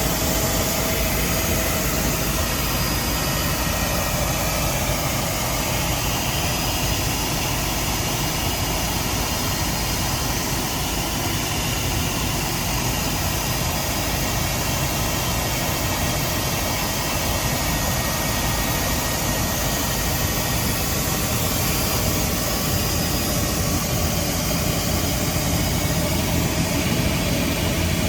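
Helicopter in flight: a steady, loud din of turbine engine and rotor noise that holds even throughout.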